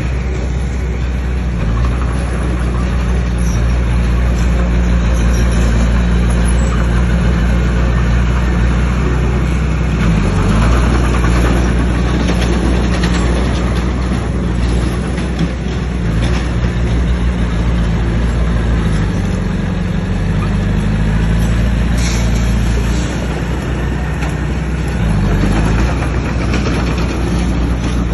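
Bulldozer's diesel engine running under shifting load, its pitch dipping and recovering several times. There is a short clatter about three quarters of the way through.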